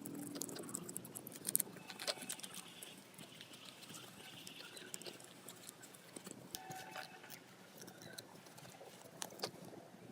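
Faint, scattered clicks and light taps of small metal parts and tools being handled on a work surface, with a short cluster of louder clicks about a second and a half in.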